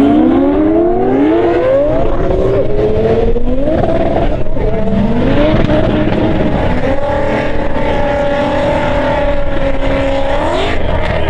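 Twin-turbo Lamborghini Gallardo V10 accelerating at full throttle, the revs climbing and dropping back at each upshift, about three shifts in the first six seconds. It then pulls long and steady in a high gear, with the pitch rising slowly.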